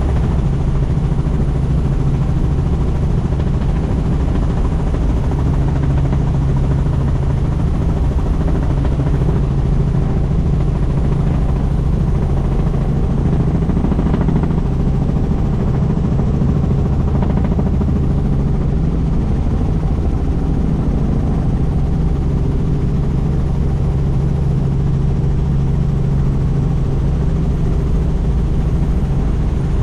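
Helicopter in flight, heard from on board with the doors off: a steady, loud drone of rotor and engine with rushing air, unchanging throughout.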